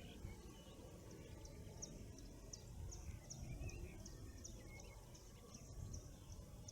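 Wild birds singing faintly in the morning: one bird repeats a short, thin, high note about two or three times a second, while others give softer chirps, over a steady low background rumble.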